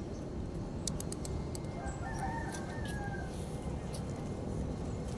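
A rooster crows once, faint and distant, about two seconds in, over a steady low rumble.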